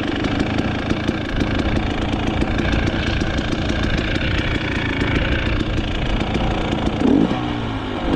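Dirt bike engine running steadily at low revs, with a brief louder swell about seven seconds in.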